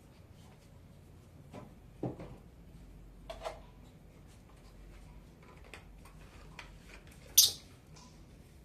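A few soft knocks and taps, then one short, shrill chirp from a blue Fischer's lovebird near the end.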